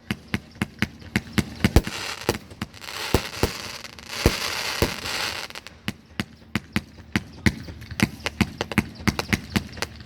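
Fireworks going off: many sharp bangs in quick, irregular succession, with two stretches of dense, continuous hiss and crackle in the middle.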